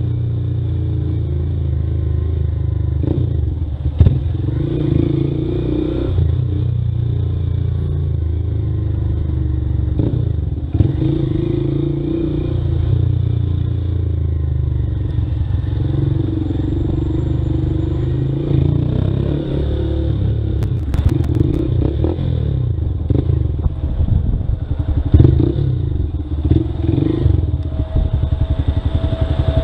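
Motorcycle engine running at low speed, recorded from the bike itself, with a few sharp knocks and clicks along the way.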